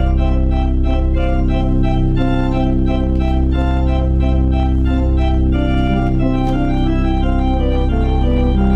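Organ music, likely a postlude: long-held low bass notes under a moving chordal line of higher notes.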